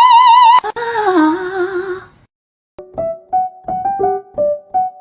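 A loud held note with a steady vibrato cuts off less than a second in. A lower, wavering note follows and fades by about two seconds. After a short gap, piano music of short, separate notes begins about three seconds in.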